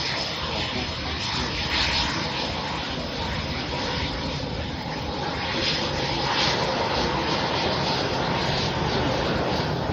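Aircraft engines droning steadily as a plane flies its display, growing a little louder about six seconds in.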